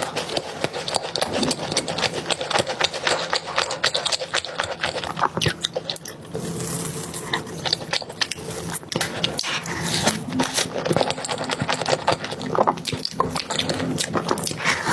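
Close-miked chewing and wet mouth sounds of someone eating a soft crepe cake roll: a dense run of small smacks and clicks.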